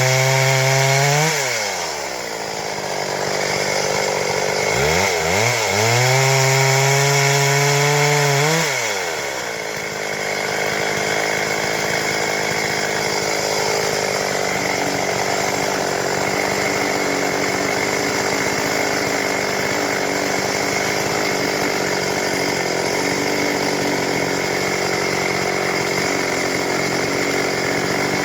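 Stihl MS 382 chainsaw engine held at full throttle, dropping back, revving up again for about four seconds, then running steadily at a lower speed.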